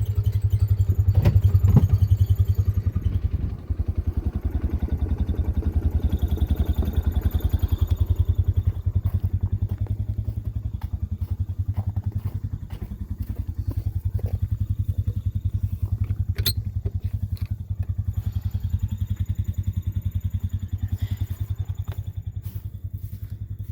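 An engine running steadily with a low, fast, even pulsing, with a few sharp knocks or clanks over it near the start and once later on.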